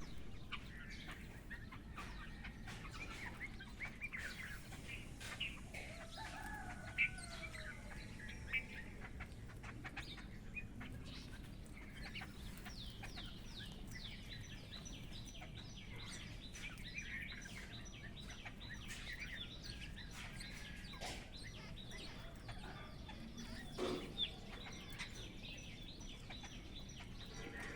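Village morning bird chorus: chickens clucking, with small birds chirping throughout and a fast run of high chirps starting around the middle.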